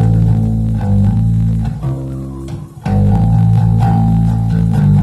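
Live band playing loud, droning electric guitars held on low sustained notes, with a short drop in level about two seconds in before the full sound returns.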